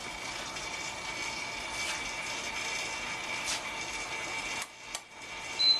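Microwave apparatus running with a steady hum and a constant high whine, broken by a few sharp clicks and a brief drop near the end. A short high beep, the loudest sound, comes just before the end.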